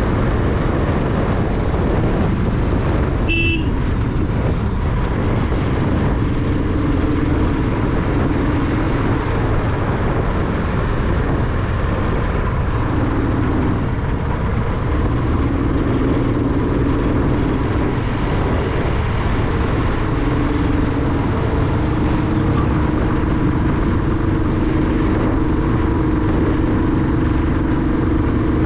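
Royal Enfield motorcycle riding at speed: a steady engine note rising and falling under heavy wind noise on the microphone. A brief high beep about three seconds in.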